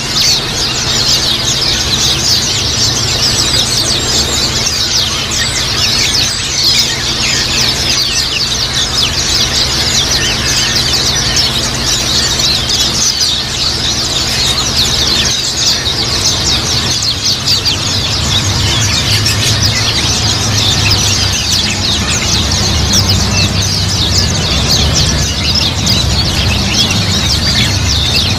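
A flock of white-eyes (pleci) chirping and chattering nonstop, many short high calls overlapping, over a low steady hum.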